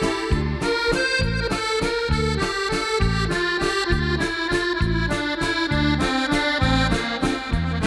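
Accordion music playing, with a melody over bass notes that repeat at a steady beat.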